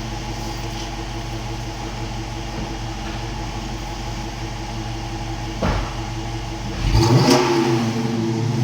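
2015 Dodge Challenger R/T's 5.7-litre HEMI V8 idling steadily through an exhaust that sounds a little more than stock. A short knock comes a little past halfway, then the engine is revved near the end and grows louder.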